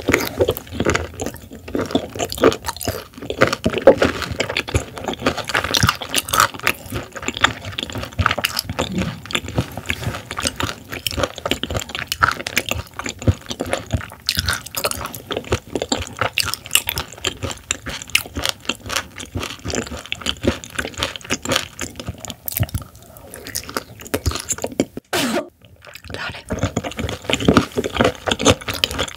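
Close-miked chewing of raw silver pomfret sashimi: a dense run of small wet mouth clicks, with a brief pause about twenty-five seconds in.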